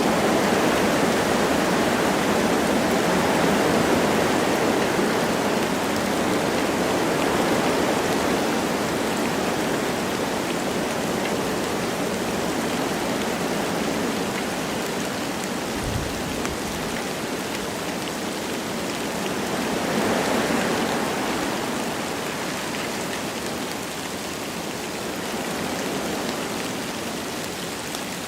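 Wind blowing through forest trees with light rain falling, a steady rushing hiss that swells in gusts near the start and again about twenty seconds in. A brief low thud about sixteen seconds in.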